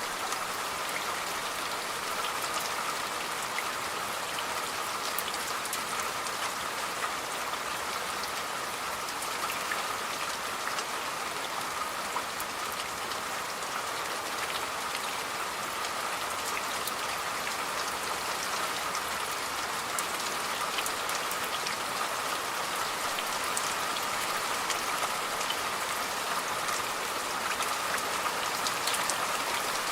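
Steady rain falling, with many individual drops striking a surface; constant, with no change in intensity.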